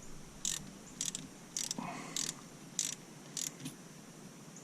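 Hand ratchet wrench clicking in a slow, even rhythm, about six strokes a little over half a second apart, as shifter mounting bolts are worked.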